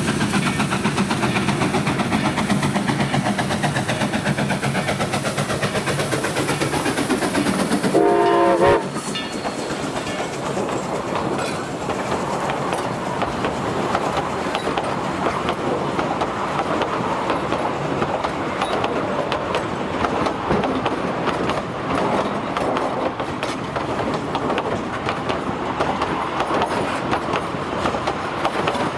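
Narrow-gauge K-37 2-8-2 steam locomotive No. 493 running with its passenger train, wheels clattering over the rail joints. A brief whistle note sounds about eight seconds in, and then the sound changes abruptly to the steady clickety-clack of the train rolling past.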